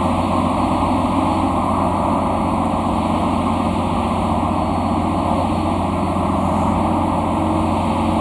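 Ship's engine-room machinery running: a loud, constant drone with a steady low hum.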